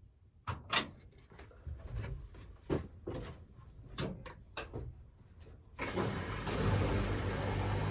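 Clicks and knocks of Hotpoint Aquarius washing machine controls being set, then about six seconds in the machines start up with a steady low hum and hiss as the spin programme begins.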